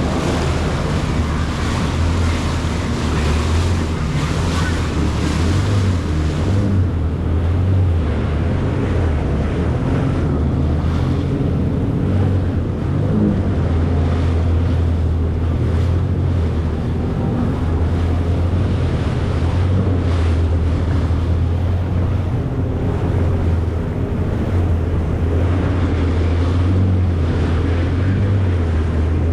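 Jet ski running at speed: a steady low engine drone under wind buffeting the microphone and rushing water.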